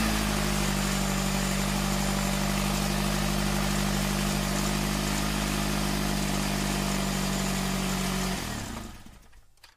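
Engine running steadily at a constant speed with a hum and hiss, heard from inside a vehicle near a sugarcane grab loader at work. It fades out about a second before the end.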